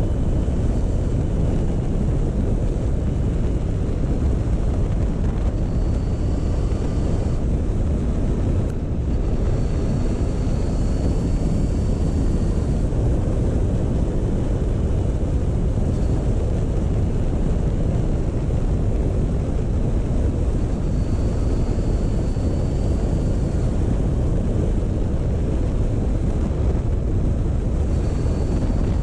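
Motorcycle riding at a slow, steady pace: wind rushing over the microphone with the engine running underneath, even in level throughout. A faint high whine comes and goes a few times.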